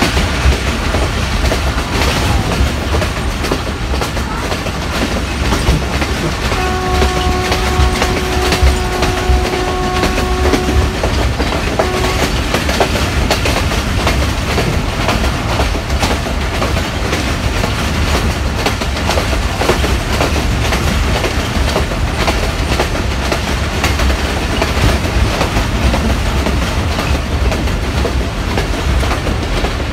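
Passenger train running at speed, heard from inside a coach: steady rumble and wheel clickety-clack on the rails. About seven seconds in, the Hitachi PHA-20 locomotive's horn sounds one steady note for about four seconds, followed a second later by a short toot.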